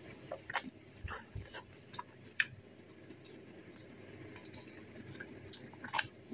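Close-miked eating sounds: a mouthful of egg noodles and roast duck being chewed, with scattered soft wet smacks and clicks, most of them in the first couple of seconds.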